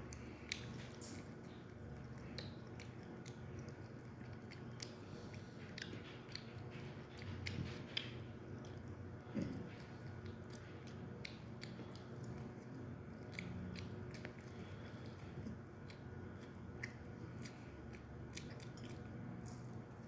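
A person chewing and biting into chicken, with small scattered clicks and smacks of eating over a low steady background hum.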